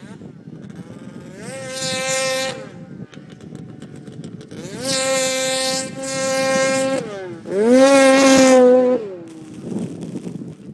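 2003 Polaris RMK 700 snowmobile's two-stroke twin engine on its stock muffler, idling and revved three times; each rev rises, holds briefly, then drops back to idle. Very quiet for a sled.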